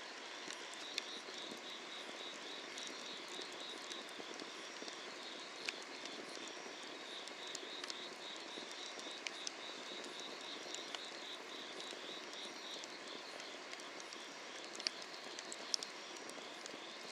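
Wood fire burning under a cast-iron cauldron: a steady hiss with scattered sharp crackles, a few louder pops near the end. Insects chirp throughout in a fast pulsing trill.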